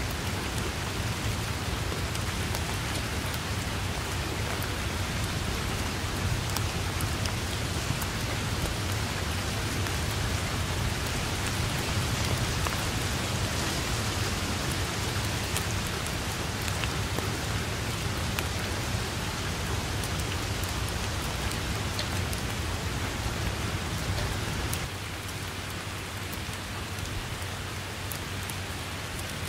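Steady rain with close drops ticking and a low rumble underneath. It turns a little quieter near the end.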